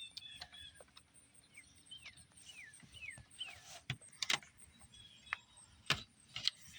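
Tractor air filter element being pushed into its plastic housing: a run of short falling rubbery squeaks as the seal slides in, then several sharp plastic clicks and knocks as the parts seat.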